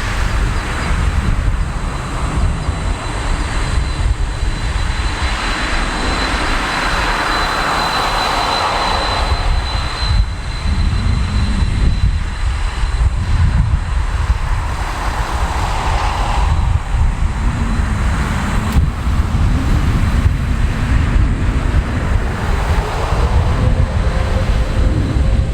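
Boeing 777-200ER jet engines at high power, a deep steady rumble that swells and eases, with a faint high whine in the first half.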